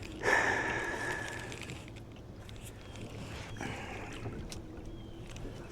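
A fishing cast from a kayak: a sudden swish with line whirring off the reel, fading over about a second and a half, then a second, softer swish a little past halfway.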